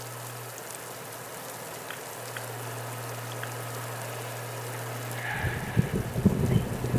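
Steady hiss of rain and riding noise, picked up on a motorcyclist's microphone while riding in the rain, under a steady low hum. About five seconds in, loud, irregular low rumbling buffets in over it.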